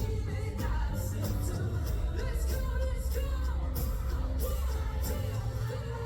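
Live rock band playing with a singer, drums and bass heavy, as picked up in a concert fan recording.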